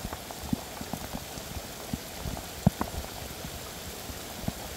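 Steady rain falling on shallow water, wet mud and leaves: an even hiss dotted with many scattered, irregular drops and plops.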